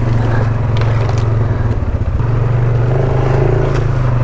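ATV engine running steadily while riding a rough trail, with a few sharp knocks and clatters, about three of them.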